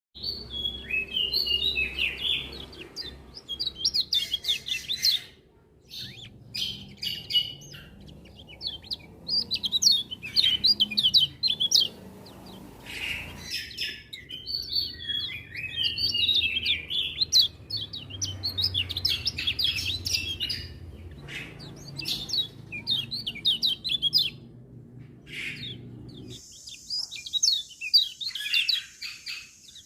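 Kecial kuning, a small white-eye songbird, singing rapid high twittering phrases in repeated bursts, with other birds chirping along. A low steady hum lies underneath until near the end, when it stops and a faint high hiss takes over.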